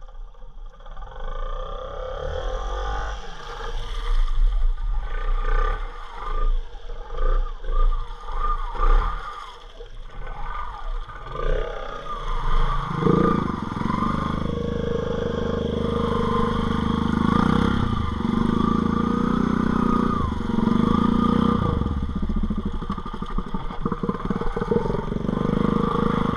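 Motorbike engine revving in short, uneven bursts, then held at high, steady revs from about halfway through, with the pitch wavering as the bike is pushed through deep water.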